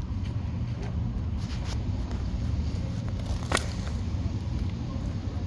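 Engine running steadily at idle, a continuous low rumble, with one sharp click about three and a half seconds in.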